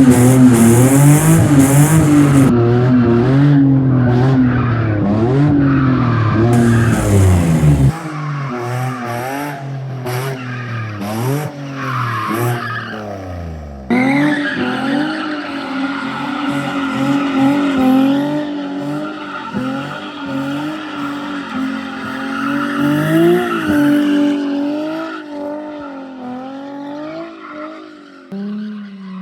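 Car engines revving up and down hard with tyre squeal, as cars are drifted. The sound changes abruptly about 8 and 14 seconds in, and it is loudest in the first stretch.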